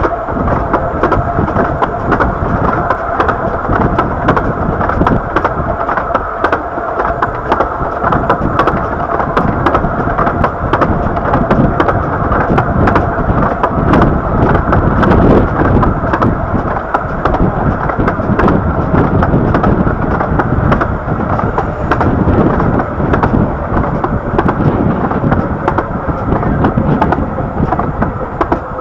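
15-inch gauge miniature railway train running, heard from a carriage: a loud continuous rumble full of rapid clicking and rattling, with a steady high tone held throughout.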